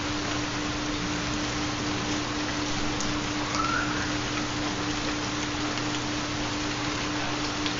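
Steady rain falling, with scattered drop ticks, over a constant low hum tone from a theta (4 Hz) binaural beat.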